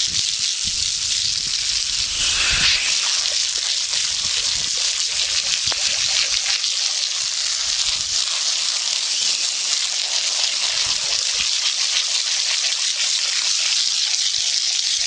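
Water spray rinsing a horse's coat, a steady hiss that washes off the body wash and loosened mud.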